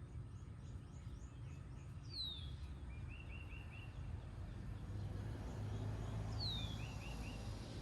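Several wild birds singing: runs of three or four quick chirps, and twice a slurred whistle dropping in pitch, about two seconds in and again near the end. Under them runs a low, steady background rumble.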